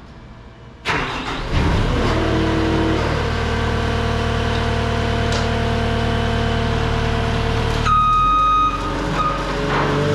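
Caterpillar 259D3 compact track loader's diesel engine starts abruptly about a second in and then runs steadily. About eight seconds in, its backup alarm begins beeping as the machine reverses.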